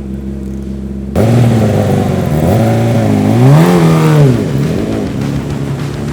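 BMW M 1000 RR superbike's inline-four engine running on track. A steady note gives way about a second in to a louder one, whose pitch climbs to a peak near the middle and drops back before levelling out.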